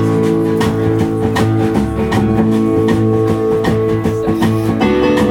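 Live band playing an instrumental passage: guitars strumming over held chords, with drums keeping a steady beat.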